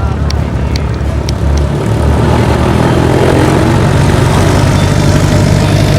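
A loud engine running, swelling louder about two seconds in.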